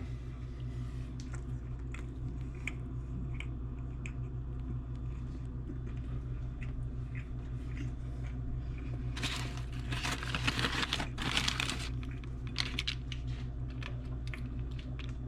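A man chewing a bite of a chicken, egg and cheese bagel, with small wet mouth clicks scattered throughout. About nine seconds in, a sandwich wrapper crinkles and rustles for a few seconds, the loudest sound here, over a steady low hum.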